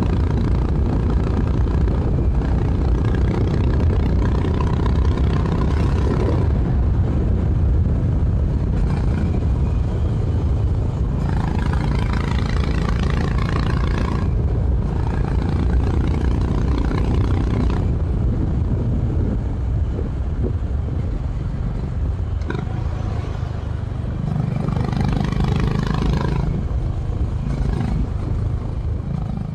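Honda H'ness CB350 RS's air-cooled single-cylinder engine running through its stock exhaust while riding, with wind rush. It pulls harder twice, about a third of the way in and again near the end, and fades out at the very end.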